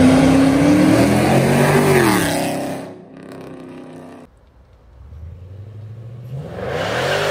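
Dodge Charger R/T's 5.7 Hemi V8, breathing through long-tube headers, high-flow cats, no mid-pipes and the stock rear exhaust, held at high revs and then easing off as the pitch drops. After a short quieter stretch the revs build again, rising near the end.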